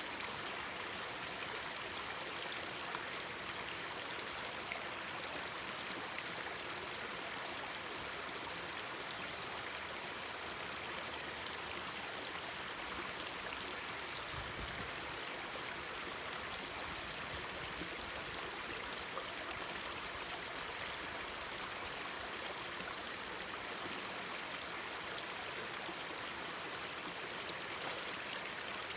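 Mountain stream babbling steadily, a constant rush of running water, with faint scattered crackles from a wood campfire.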